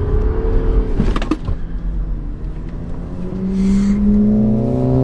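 BMW 335d's twin-turbo straight-six diesel engine heard from inside the cabin, running steadily at first, then rising in pitch from about three seconds in as the car accelerates. A couple of sharp knocks come about a second in.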